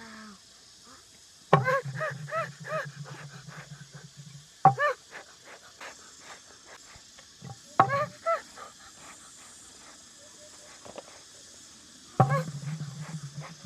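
An animal calling in short, repeated bursts: a run of quick calls about a second and a half in, single calls around the middle, and another run near the end.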